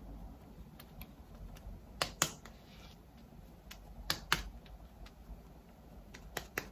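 Sharp, light clicks: a quick pair about two seconds in, another pair about four seconds in, then several in quick succession near the end.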